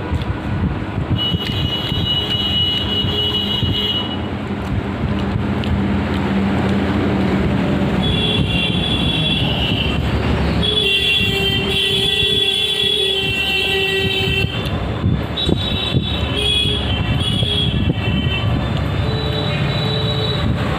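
Steady road-traffic rumble with vehicle horns sounding several times, each honk lasting a second or more.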